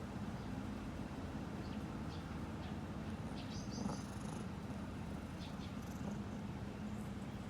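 Cat purring steadily close by, with a few faint high chirps about halfway through.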